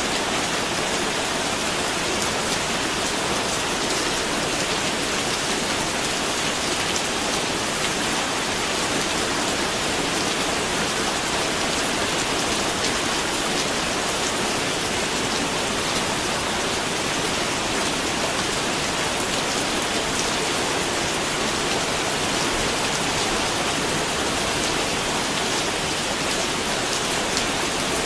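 Steady, even rain, with fine drop patter on a surface.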